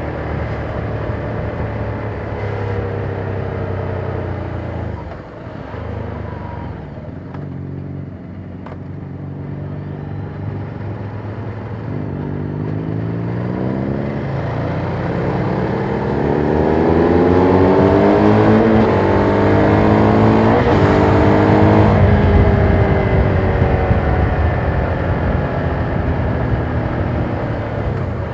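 Ducati Monster 797's air-cooled V-twin heard from the saddle through its quiet stock exhaust, the bike being ridden. It eases off and quietens about a third of the way in, then pulls up through the revs over several seconds to its loudest. A shift near three-quarters of the way through drops the pitch, and it carries on strongly.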